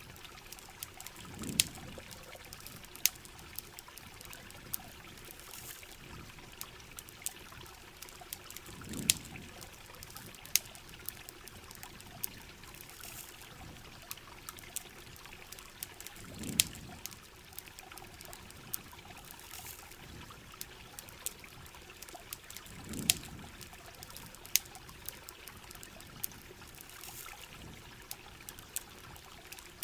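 Steady heavy rain with trickling, pouring water, over which a campfire crackles in sharp, irregular pops. A low swell rises and fades about every seven seconds.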